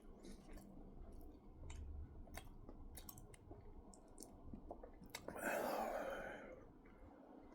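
A person chewing a mouthful of Reese's peanut butter heart, with soft, sticky mouth clicks scattered throughout. About five seconds in there is a louder, hissing noise lasting just over a second.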